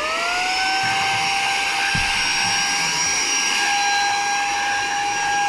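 Saker 3-in-1 cordless mini vacuum's brushless motor spinning up on its low speed, its whine rising and levelling off about a second in, then running steady with a rush of air.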